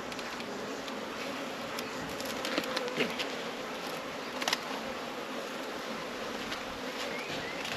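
Honeybees buzzing steadily around an open hive, with a few light knocks about midway.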